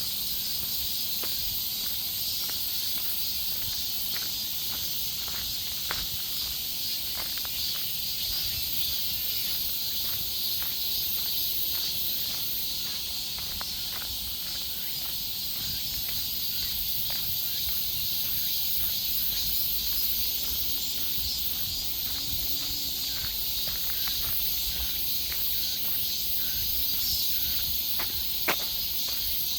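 Steady, high-pitched chorus of insects in a forest, an unbroken hiss, with scattered faint clicks and a low rumble underneath.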